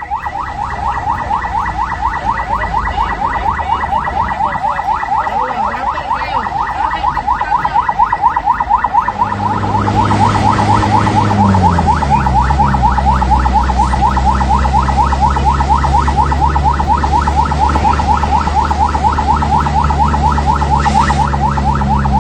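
Electronic emergency siren sounding a rapid yelp, its tone sweeping up and down several times a second. From about nine seconds in, an engine runs close by and shifts pitch soon after.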